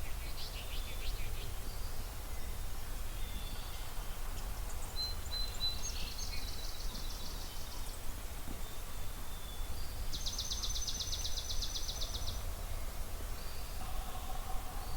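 Several songbirds singing in a spring dawn chorus over a steady low background rumble. The clearest song is a fast, even, dry trill about ten seconds in that lasts about two seconds; another trill comes a few seconds before it.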